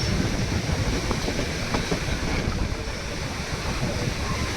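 Steady rumble and rattle of the White Pass & Yukon Route passenger train running along the track, heard from on board.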